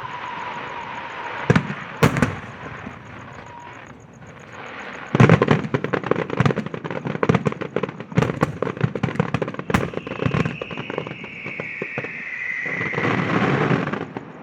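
Firecrackers and aerial fireworks going off: two sharp bangs, then a rapid, dense run of crackling reports for about five seconds. This is followed by a long whistling tone that slides slightly lower.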